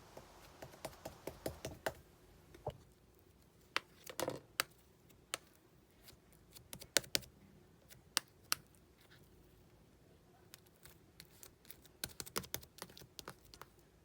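Liquid-clay slime being handled by hand, making irregular sharp clicks and small pops in clusters, with quiet stretches between.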